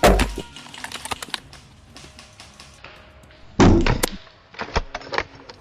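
Airsoft gunfire at close range: a sharp loud crack at the start, another loud burst about three and a half seconds in, then a few lighter clicks.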